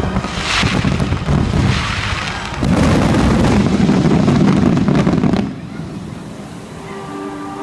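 Fireworks going off: bangs and crackling, building to a dense barrage from about two and a half seconds in that stops suddenly near five and a half seconds. Orchestral music comes back in near the end.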